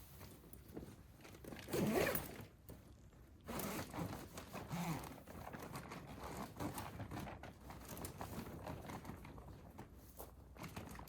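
Close-up rustling and handling noises: crinkling of plastic or fabric with small clicks. There is a brief, louder rasp like a zipper about two seconds in, and more rustling a little later.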